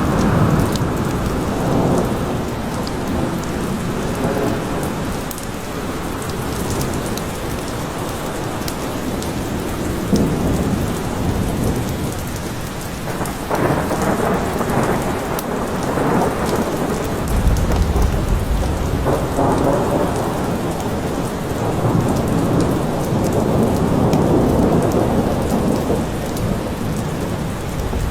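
Heavy rain falling steadily in a forest, with thunder rolling through it. The loudest, deepest rumble of thunder comes a little past the middle.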